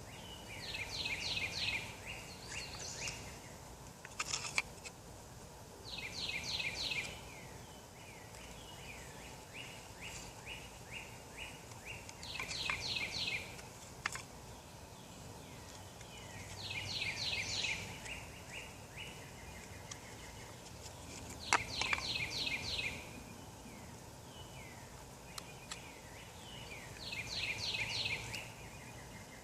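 A songbird singing the same short phrase of quick, high, evenly repeated notes about every five seconds, with a few sharp clicks in between, the loudest about three quarters of the way through.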